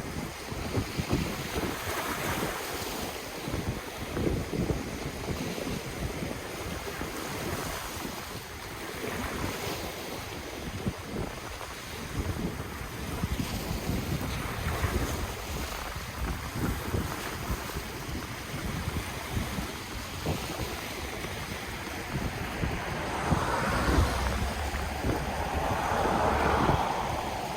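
Ocean waves washing on the shore, with wind buffeting the microphone as a low, gusty rumble. The surf swells louder near the end.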